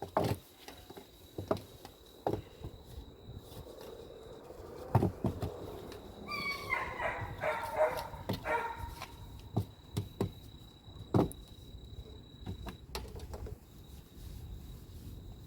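A dog barking and yipping in a quick run of short calls about halfway through, with scattered knocks and clicks around it.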